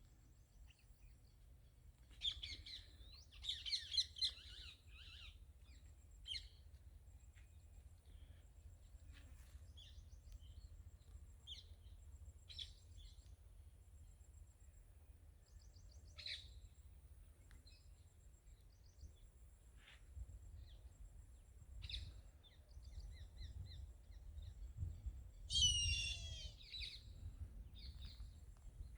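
Wild birds chirping and calling, with short high calls scattered throughout and busier flurries of trilled song about three seconds in and again near the end. A faint high pulsing buzz and a low rumble run underneath.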